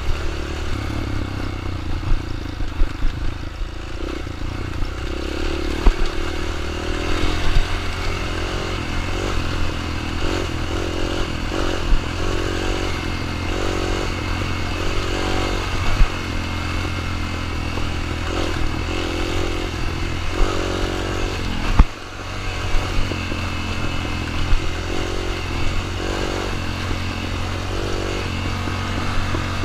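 Dirt bike engine running steadily, with frequent sharp knocks and rattling.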